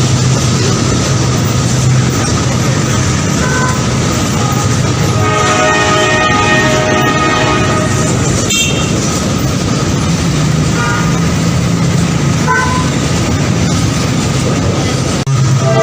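Train running with a loud steady rumble, sounding its horn in a long chord-like blast about five seconds in that lasts around three seconds, with brief toots later. Near the end the sound breaks off abruptly and another horn blast begins.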